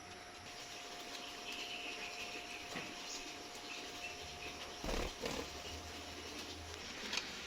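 Budgies chirping faintly, with a thump about five seconds in and a sharp click near the end.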